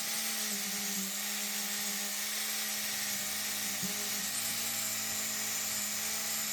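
Electric power tool motor running steadily with a high whine; a second, lower hum joins about three seconds in and stops shortly before the end.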